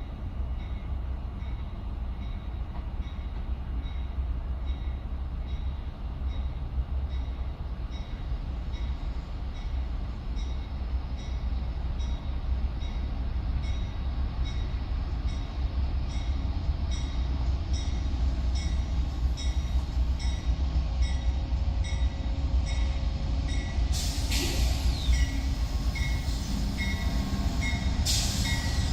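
A train rumbling by, growing slowly louder, under a bright ding that repeats about one and a half times a second. Two short, loud hissing or squealing bursts come near the end.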